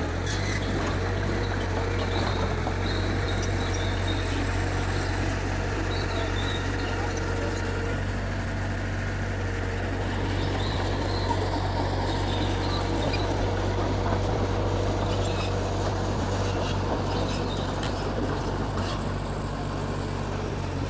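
Mitsubishi G2 bulldozer's diesel engine running steadily, with a few faint clicks late on.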